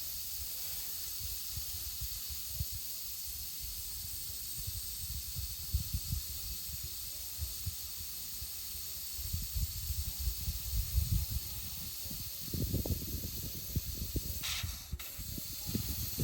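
Butane gas hissing steadily from a gas can's nozzle as a live-steam model locomotive's gas tank is filled, with irregular low rumbles of handling or wind that grow stronger near the end.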